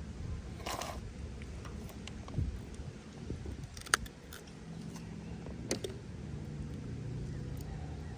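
Scattered small clicks, knocks and a brief rustle from handling a freshly caught fish and fishing gear in a kayak. The sharpest click comes about four seconds in.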